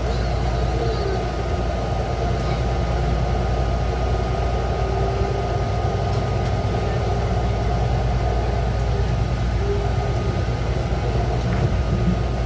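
Taichung MRT Green Line metro train running, a steady low rumble with a faint whine above it.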